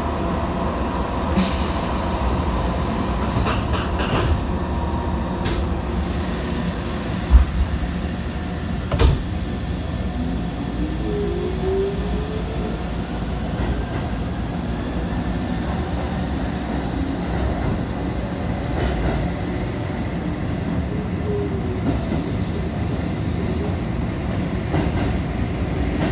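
Interior running noise of a Shibayama Railway 3500-series electric train pulling out of an underground station and gathering speed through the tunnel. There are two short thumps about seven and nine seconds in, and a rising tone a little later.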